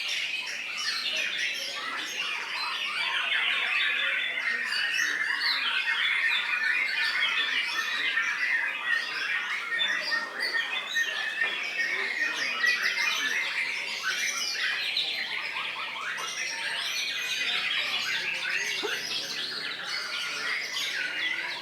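Dense chorus of songbirds, many chirps, whistles and trills overlapping with no pause.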